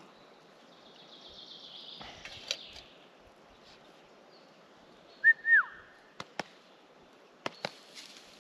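Outdoor woodland sounds: two short, loud whistled call notes about five seconds in, the second bending downward in pitch, with a few sharp clicks or snaps around them.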